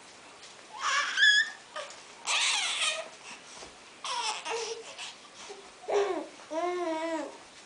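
A baby babbling and squealing in short separate bursts, with a very high squeal about a second in and a longer wavering vocal sound near the end.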